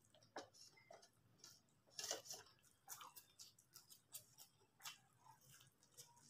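Faint, irregular wet clicks and smacks of a person chewing a large mouthful of chow mein noodles, with a louder burst about two seconds in.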